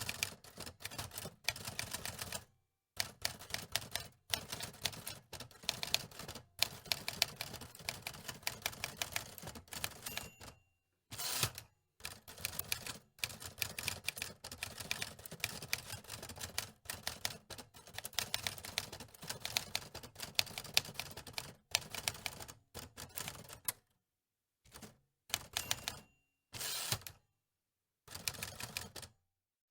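Manual typewriter keys clacking in quick runs of strikes, broken by short pauses.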